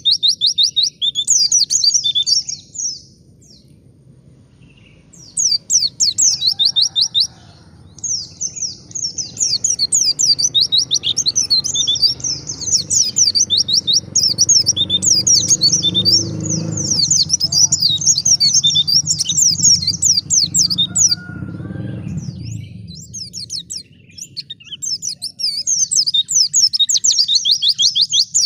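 White-eye (pleci) singing a rapid, high, twittering song in long runs, with a short break a few seconds in and another near the end. A low rumble sits under the song in the middle.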